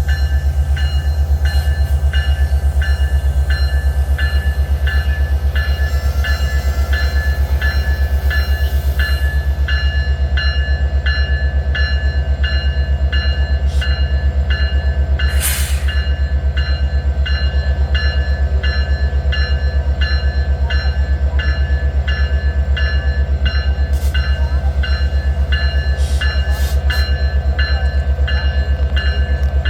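CP Holiday Train's diesel locomotive running with a steady low rumble while its bell rings evenly, about two strokes a second.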